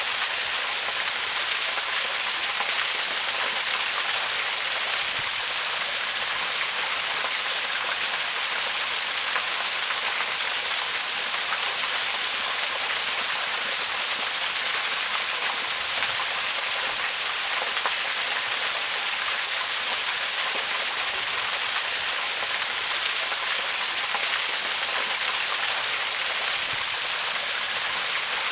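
Waterfall: a steady, unbroken rush of falling water, heard as a dense even hiss weighted toward the high end.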